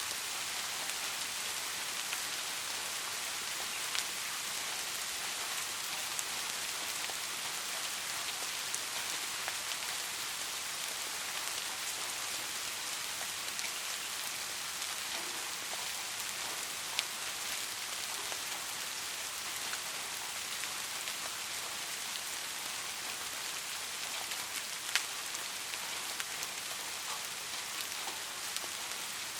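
Steady rain falling: an even, hissing patter, with a few sharper single drop hits standing out now and then.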